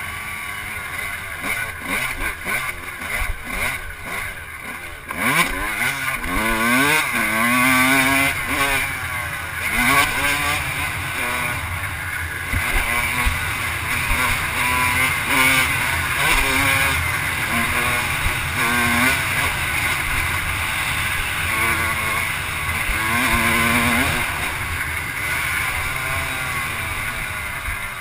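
Off-road vehicle engine revving up and down over and over as the throttle is opened and closed on a dirt track, its pitch rising and falling every second or two.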